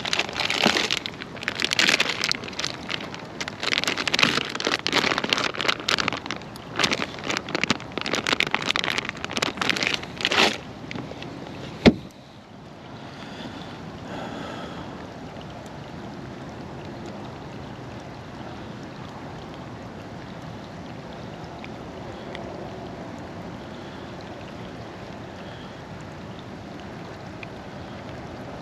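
Water and wind sounds around a kayak: irregular splashing and rushing bursts for about ten seconds, a single sharp click, then a steady, quieter hiss.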